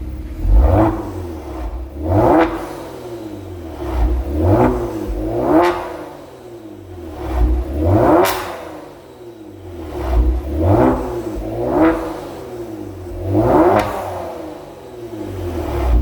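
Kia Stinger 3.3 twin-turbo V6 revved repeatedly in short blips through an aftermarket valved (variable) exhaust muffler, each rev rising and falling back between blips.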